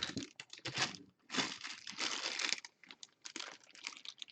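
Plastic packaging crinkling and rustling as it is handled and pulled open, in a series of irregular bursts, the longest lasting about a second.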